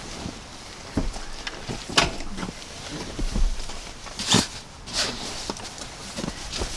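Irregular knocks and bumps with rustling, from people moving about and handling things in and around a van; the sharpest knock comes about four seconds in.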